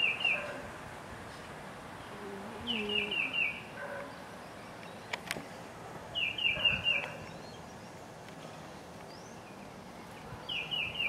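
A songbird singing the same short phrase four times, roughly every three and a half seconds. Each phrase is four or five quick, high, down-slurred whistled notes.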